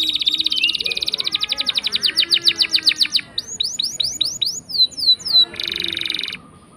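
Domestic canary singing: a long, fast rolling trill, then a quick run of downward-sweeping notes, then a short harsh buzz about six seconds in.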